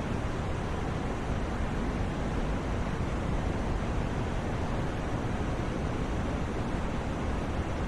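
Steady, unchanging white noise, a rushing hiss with no rhythm or events, fuller in the low range and thinning out toward the top.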